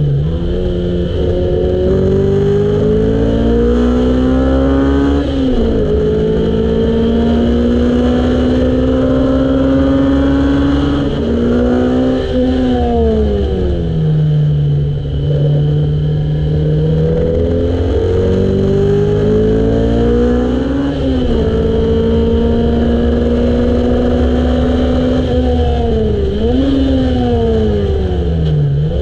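The engine of a car driven hard on a race circuit, heard from onboard. The revs climb under acceleration, drop sharply at gear changes, and fall away under braking, several times over, with a quick rev blip near the end. Low road and wind rumble runs underneath.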